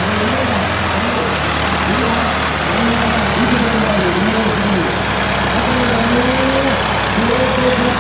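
Diesel tractor engines running steadily under load, with a person's voice wavering in pitch over them.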